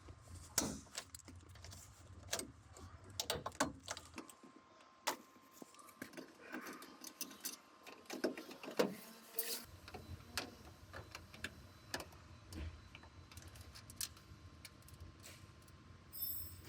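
Irregular light clicks, taps and small knocks of hand work on a car in a repair shop, about one every second with no steady rhythm.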